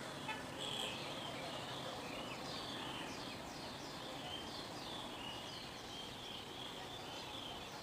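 Small birds chirping over and over in short falling notes, over a faint, steady low background noise.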